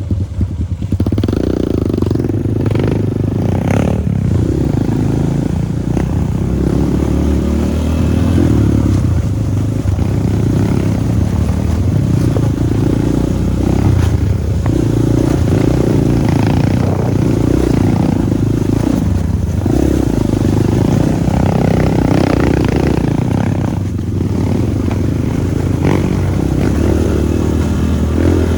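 Dirt bike engine revving up and down in repeated surges as the bike is ridden along a trail, with occasional knocks from the bike.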